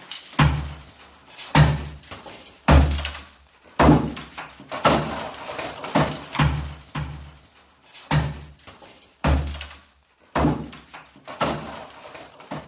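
A series of heavy thuds, about one a second, each deep and sudden with a short tail.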